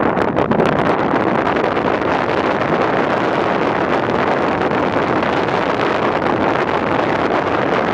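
Loud, steady wind noise buffeting the microphone in a moving car, drowning out the road noise beneath it.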